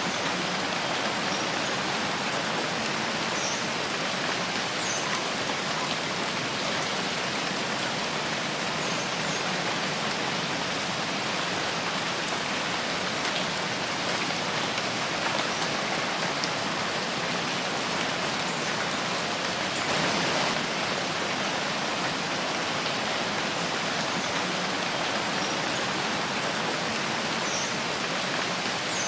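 Steady rain falling in a forest: an even hiss of rainfall with many single drops ticking through it, swelling briefly a little heavier about two-thirds of the way through.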